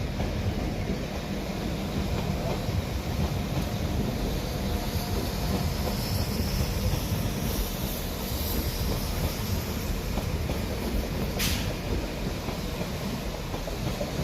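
A train moving through the station: a steady rumble with a faint high whine partway through, and a short sharp hiss about eleven seconds in.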